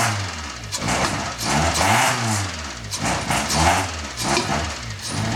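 Freshly rebuilt Toyota 4A-GE twin-cam four-cylinder running soon after its first start, its revs blipped up and back down about once a second.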